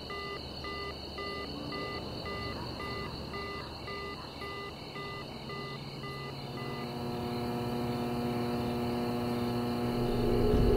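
A car's door-open warning chime beeping steadily, about two beeps a second, over a high steady ringing tone. The beeping stops about two-thirds of the way through as a low drone swells in.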